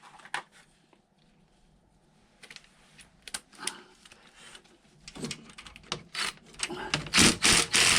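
Scattered clicks and metallic taps of a hand tool working the 8mm bolts on a scooter's engine side casing. Faint for the first couple of seconds, then busier, with the loudest knocks near the end.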